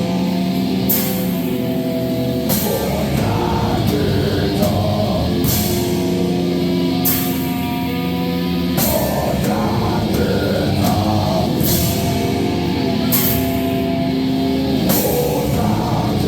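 Live rock band playing loud, heavy rock: held distorted guitar chords over a drum kit, with cymbal crashes every second or two.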